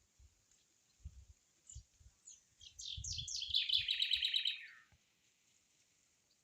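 A songbird singing one song phrase: a run of short falling notes that come faster and faster and run into a fast trill that drops in pitch and stops.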